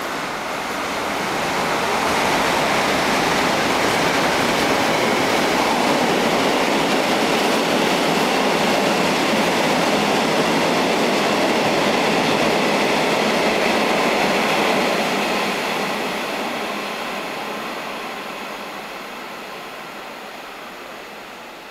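Freight train hauled by a KCR ER20 diesel locomotive running through a station, with its locomotive and wagon wheels on the rails. The noise builds over the first couple of seconds and stays loud and steady while the wagons pass. About fifteen seconds in it starts fading away as the train leaves.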